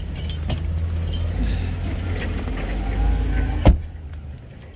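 A vehicle engine running with a steady low rumble, with light clinks and rattles over it. A single sharp knock comes near the end, after which the engine sound drops away.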